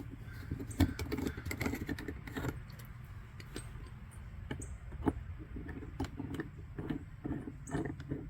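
Small metal clicks and clinks of faucet parts being handled as a replacement piece is tried for fit, over a steady low hum.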